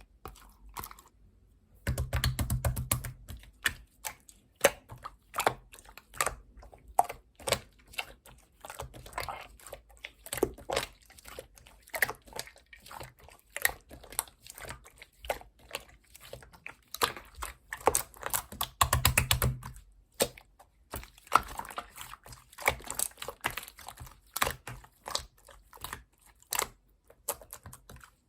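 Clear slime being squished and pressed by hand, giving a dense run of small wet clicks and pops. Twice, about two seconds in and again about two-thirds through, a short low rumble joins the clicks.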